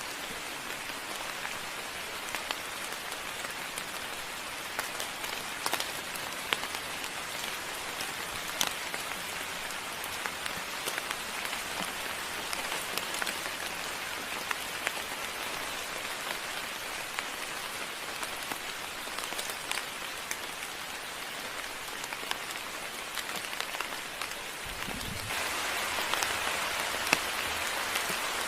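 Steady moderate rain, with sharp hits of single drops scattered through it. About 25 seconds in, a brief low thud is followed by the rain becoming louder.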